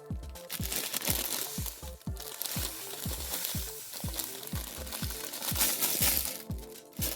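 Background music with a steady beat of about two kick-drum hits a second, over a dense fizzing hiss from hot citric-acid descaling solution.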